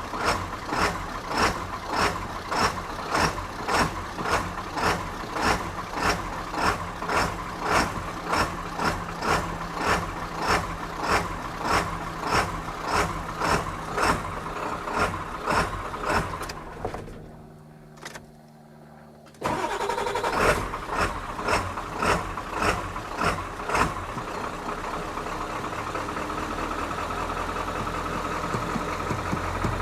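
1997 Ford F350's 7.3 V8 turbo diesel being cranked by the starter, with an even chug about twice a second. The cranking stops briefly, resumes, and the engine catches about 24 seconds in, settling into a steady idle.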